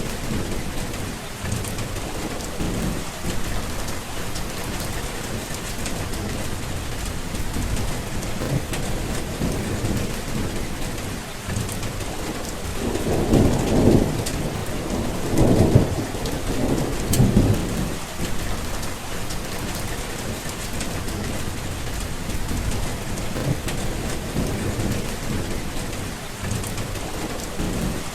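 Steady rain falling, with thunder rumbling low underneath. About halfway through, a louder roll of thunder comes in three or four swells over several seconds, then fades back into the rain.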